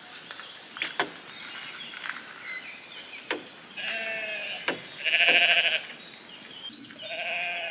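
Bleating calls like a sheep's, wavering in pitch: a longer, louder call a little past halfway and another near the end. A few sharp knocks come before them.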